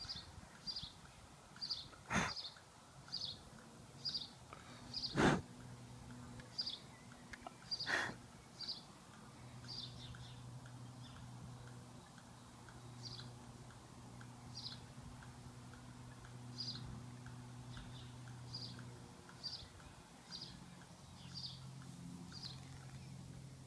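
A small bird calling over and over outdoors: short high chirps, about one or two a second. Three sharp knocks come in the first eight seconds, and a faint low drone runs through the middle.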